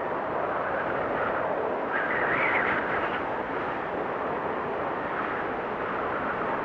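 Steady rush of wind and propeller noise from an FPV drone, heard through its onboard GoPro, with the motors' pitch rising briefly about two seconds in.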